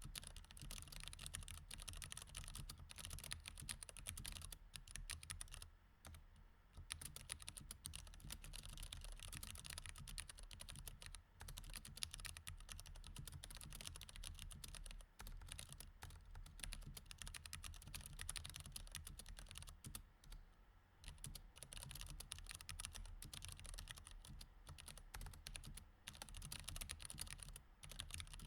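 Mechanical keyboard with Cherry MX Red switches being typed on steadily: a fast, continuous patter of key clicks with two brief pauses.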